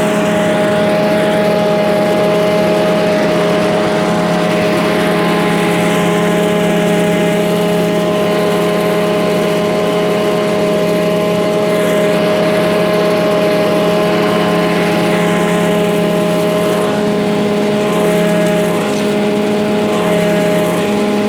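An engine running steadily at a constant speed: a continuous droning hum whose pitch does not change.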